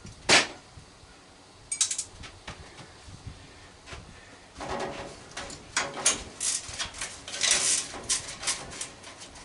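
Metal hand tools being handled: a sharp clank about a third of a second in, a few clicks near two seconds, then a long run of clinking and rattling as sockets and tools are rummaged through.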